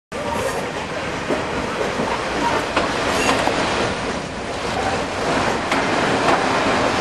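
Passenger train carriages rolling past on the rails, wheels clicking over rail joints at irregular intervals, with a faint wheel squeal at times.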